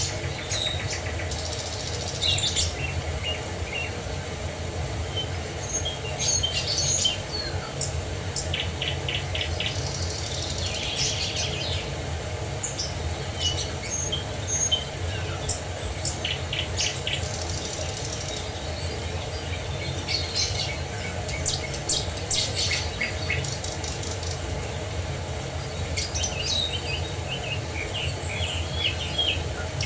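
Several birds chirping and giving short rapid trills, over a steady rush of falling water.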